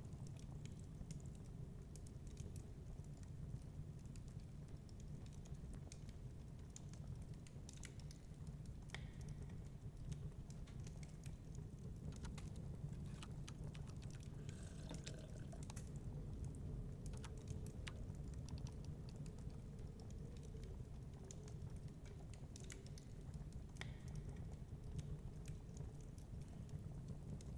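Wood fire crackling in a fireplace: irregular small pops and snaps of burning wood over a steady low rumble of storm wind.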